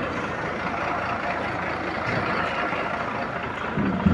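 Boom truck engine idling steadily.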